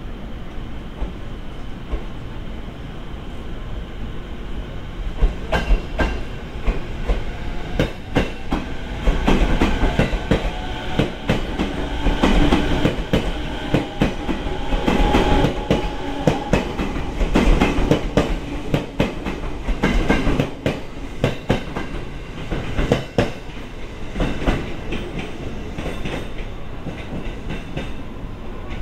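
JR East 209-series electric train (the MUE-Train test set) moving past and pulling away, its wheels clattering over rail joints and points. The clatter starts about five seconds in and is loudest in the middle as the cars go by.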